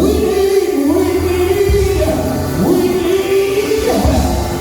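Gospel music: a voice singing long, drawn-out notes that slide between pitches over a steady low organ or keyboard bass.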